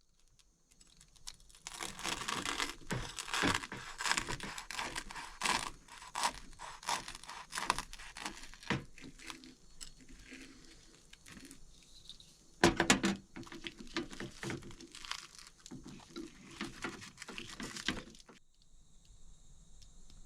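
Plastic packaging crinkling and tearing as it is handled, in irregular crackles, with a louder crackle about two-thirds of the way through.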